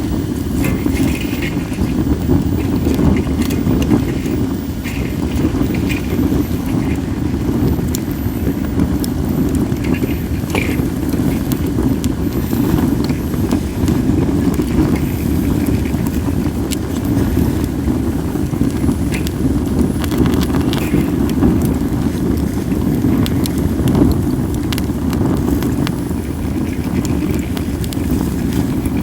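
Wood fire of acacia and mixed firewood crackling, with scattered sharp pops over a steady low rumble of flames and wind on the microphone.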